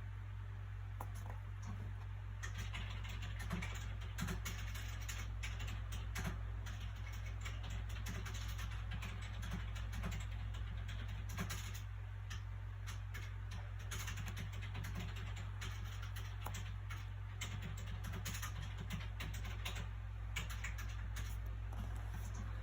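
Soft paper sounds from a book being handled: a constant run of small irregular taps, ticks and rustles over a steady low background hum.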